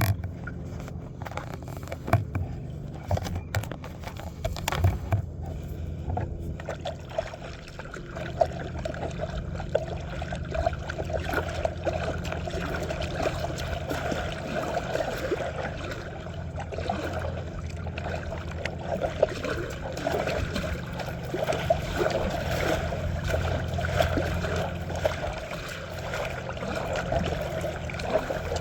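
Paddle strokes in lake water, splashing and dripping, with a few sharp knocks in the first several seconds.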